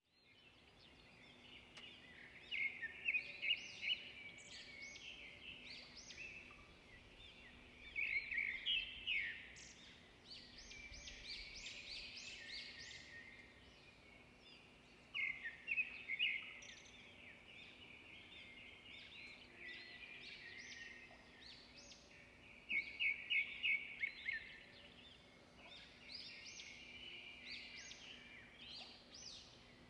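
Birdsong: phrases of rapid chirps recurring every six or seven seconds, over a faint steady hum.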